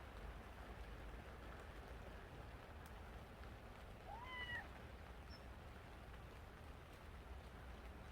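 A cat meows once about four seconds in, a short call that rises then falls in pitch, over a faint low steady hum.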